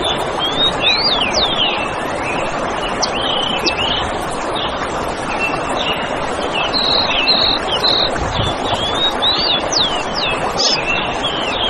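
Several forest birds chirping and calling in quick, sweeping notes over a steady rushing background hiss.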